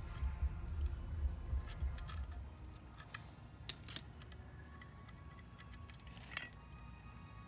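Small parts of a light fixture being handled while fitting a new socket: a low rumble of handling in the first couple of seconds, then a few sharp clicks and ticks.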